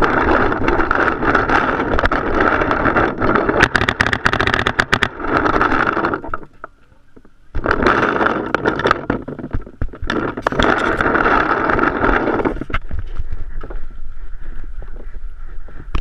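Paintball markers firing in quick strings of sharp pops over a steady rush of wind and movement noise on a body-worn action camera's microphone. The noise drops out briefly about halfway through.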